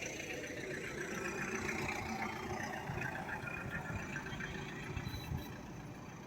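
Truck engine running steadily at low revs, with road noise.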